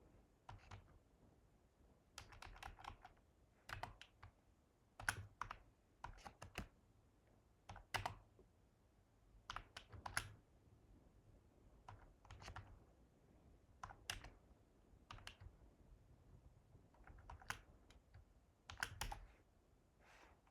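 Faint typing on a computer keyboard: short, irregular clusters of keystrokes with pauses between them.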